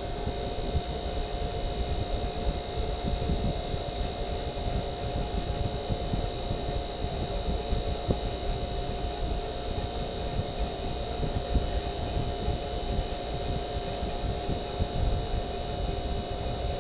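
Carrier Siesta 2 5400 BTU window air conditioner running on its low fan setting with the compressor on: a steady hum and rush of fan air, with a faint steady whine. The fan motor, which had been bogging down from sitting unused, now holds its speed on low.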